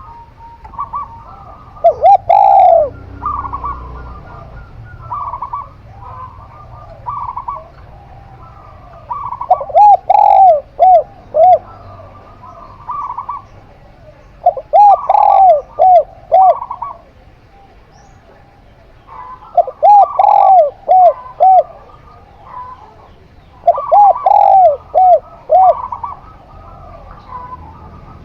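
Zebra dove (perkutut) and spotted dove (tekukur) cooing together. Loud phrases of four or five rounded coos come about every five seconds, with softer, quicker cooing notes running between them.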